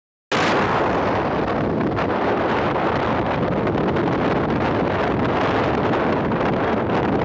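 Wind rushing over the microphone of a moving vehicle, a loud steady rumbling noise with road noise beneath it; it cuts in abruptly just after the start.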